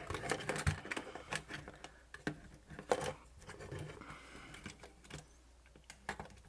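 Irregular small clicks and knocks of a camcorder's plastic housing and parts being handled and taken apart.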